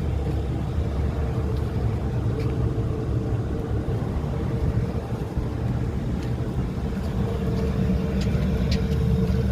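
Package unit air conditioner running: a steady low drone with a constant hum over it and a few faint clicks.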